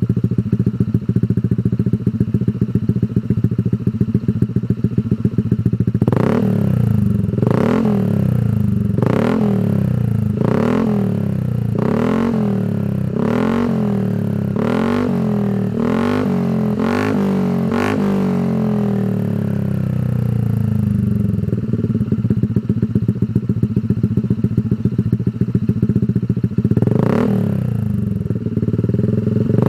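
Honda ADV 160 scooter's single-cylinder four-stroke engine breathing through a Shijiro Racing aftermarket exhaust. It idles with a steady low pulse, then is blipped about ten times in quick succession from about six seconds in, each rev rising and dropping back. It settles back to idle, with one more blip near the end.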